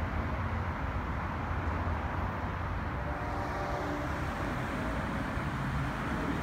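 Metro-North commuter train going away: its low rumble fades within the first second, leaving a steady wash of distant noise.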